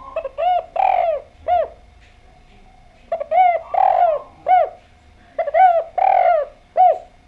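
Spotted dove (derkuku) cooing in three phrases about two seconds apart. Each phrase is a few short coos with one longer coo in the middle.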